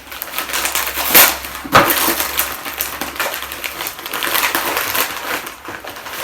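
Gift wrapping paper being torn and crumpled as a present is unwrapped, a continuous crackling rustle with two sharp snaps of paper ripping between one and two seconds in.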